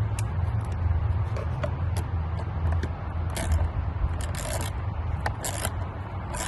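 A hand tool tightening a hose clamp on an engine intake hose: quick light clicks at first, then scraping turns about once a second, over a steady low hum.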